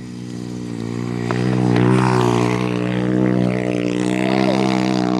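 Small single-cylinder pit bike engine running at high, nearly steady revs, with a slight rise and fall in pitch.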